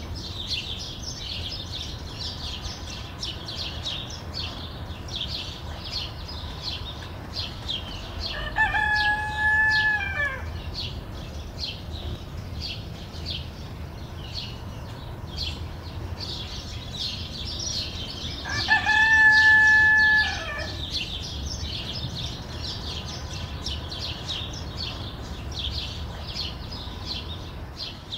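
A rooster crowing twice, about ten seconds apart, each crow lasting about two seconds and standing out as the loudest sound. Behind it, a steady, dense chatter of many small birds chirping, with natural reverb.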